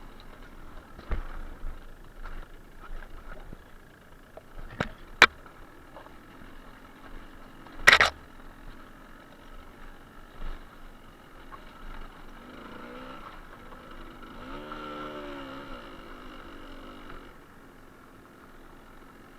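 A few sharp knocks and clicks, the loudest about eight seconds in. After them, a vehicle engine note rises and falls in pitch for a few seconds and then fades out.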